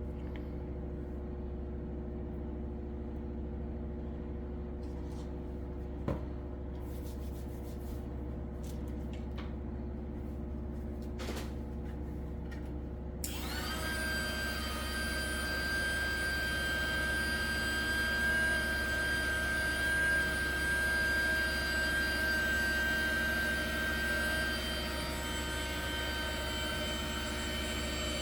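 A steady low hum with a couple of faint clicks, then about halfway through a heat gun switches on and runs steadily, a whirring fan noise with a high motor whine.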